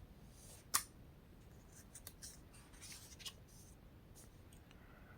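Faint paper handling as the pages of a printed catalog are moved and turned: one short sharp snap of paper about a second in, then a few light scratchy rustles.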